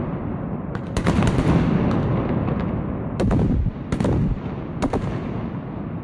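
Sky-shot fireworks bursting: several sharp bangs about one, three, four and five seconds in, over a continuous din of many more distant bangs.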